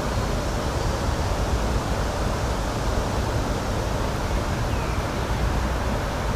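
Steady rushing outdoor nature ambience: an even noise with a deep low rumble.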